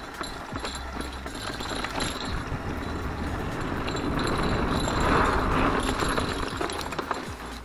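A mountain bike being ridden over a rough trail: tyres rolling and the bike rattling and knocking over bumps, with a louder rush of tyre noise in the middle.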